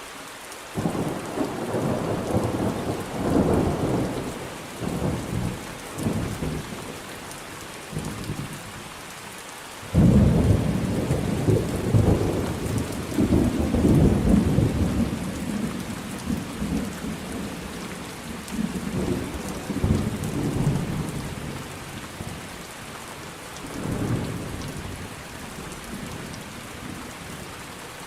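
Thunderstorm: steady rain with rolling thunder. A long rumble begins about a second in; a louder peal breaks in suddenly about a third of the way through and rolls on for some ten seconds; a shorter rumble comes near the end.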